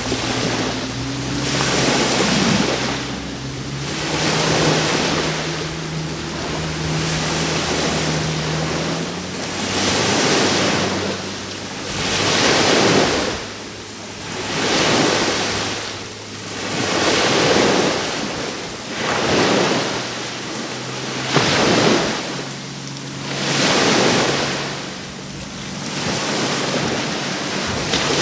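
Caribbean surf breaking on the shore, one wave swelling and washing out after another every two to three seconds. A faint low hum sits underneath for the first several seconds and then fades.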